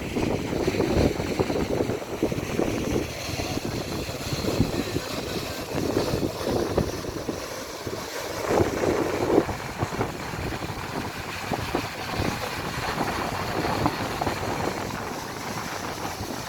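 Düden Waterfall rushing steadily, with wind gusting on the microphone.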